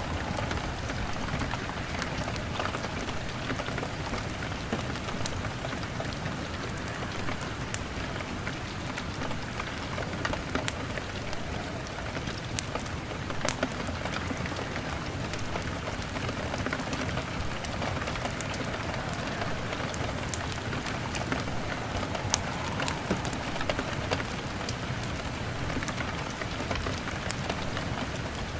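Steady rain beating on a window pane, with a log fire crackling: scattered sharp snaps over the even hiss of the rain.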